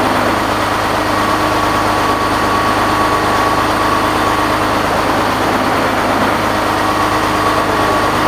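Newly fitted radial engine of a B-25 Mitchell bomber, a Wright R-2600 Twin Cyclone, running at a steady, even speed.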